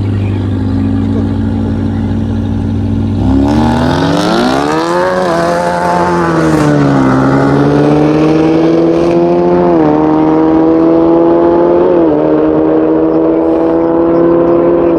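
Car engine running steadily, then accelerating hard about three seconds in. Its pitch climbs and drops back at each upshift, a big shift and then two smaller ones as it pulls through the gears.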